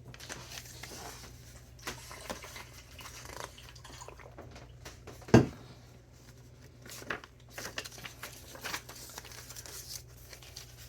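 Paper pages of a chunky handmade junk journal rustling and crinkling as they are handled and turned. There is one sharp thump about halfway through, the loudest sound here.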